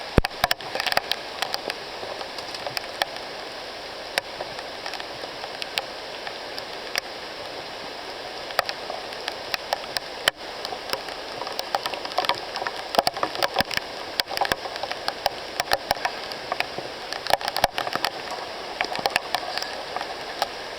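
Rain falling in a tropical rainforest: a steady hiss with irregular sharp taps of drops landing close by.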